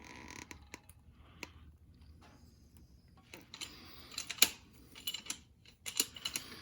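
Irregular light clicks and short scrapes from hand work with tools and materials against the wall, with a faint steady high whine about two to three seconds in.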